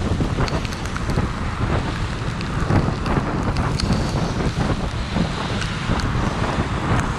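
Steady rain falling, with sharp close drop hits scattered through it and wind buffeting the microphone.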